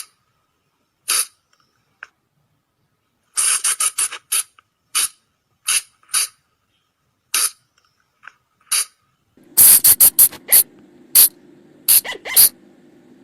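Flying lemur (colugo) calls: short, sharp, high squeaks, some single and some in quick clusters, with a dense run of them from about nine and a half seconds in. A low steady hum comes in underneath at that point.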